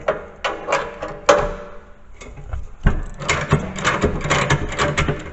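Metal tool knocks a few times, then a ratchet wrench clicks rapidly for about two seconds as the next bolt on the plow mount is worked loose.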